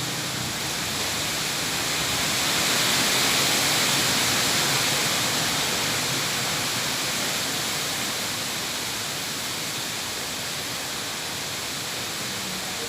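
Strong wind blowing, a steady rushing hiss that swells about three seconds in and then slowly eases.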